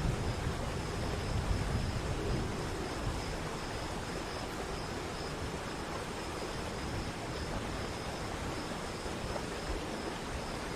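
Steady rush of water falling at a waterfall.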